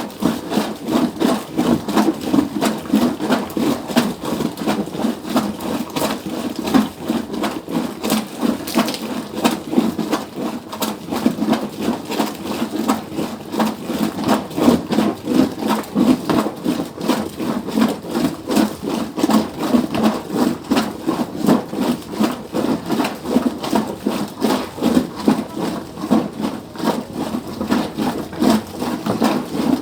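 Hand-operated manual washing machine being worked at a quick, steady rhythm, its mechanism knocking and rattling with each stroke.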